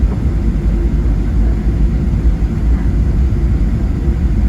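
Boeing 737-700 cabin noise heard from a front-row window seat: a loud, steady low rumble of the CFM56 engines and airflow, with no distinct events.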